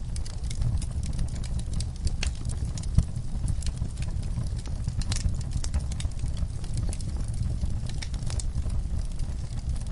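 Wood fire crackling, with irregular sharp pops and snaps over a steady low rumble. The loudest pop comes about three seconds in.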